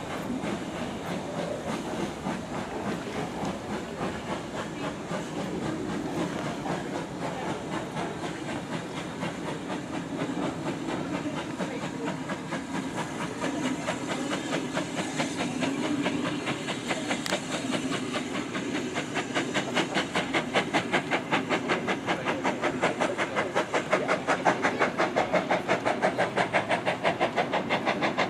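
Steam locomotive running, with a steady hiss and a rapid, even rhythmic beat that grows louder over the last third.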